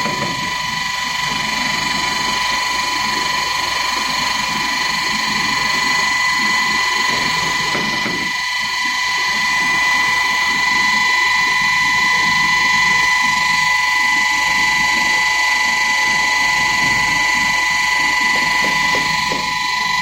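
Stainless steel universal grinder, a high-speed disk mill, running with a steady high-pitched whine over a rough, uneven churning noise.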